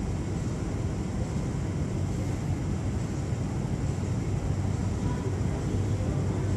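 MTR IKK electric train running, a steady low rumble with a low hum.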